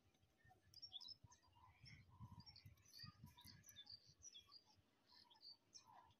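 Faint bird chirps: scattered short calls at varying pitch, with some low rumbling about two seconds in.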